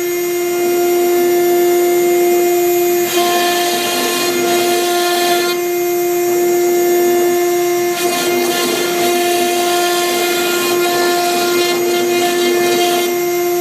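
CNC router spindle whining steadily while a V-bit engraves MDF, with a high cutting hiss that drops away and comes back a few times as the bit moves between cuts.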